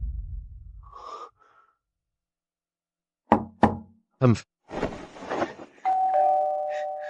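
Three sharp knocks on a door, then a two-note ding-dong doorbell chime that rings on to the end.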